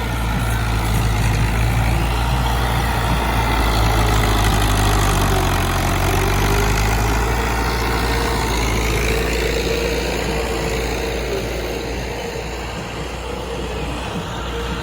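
Tractor engine running steadily, a little louder in the first half and easing slightly after about ten seconds.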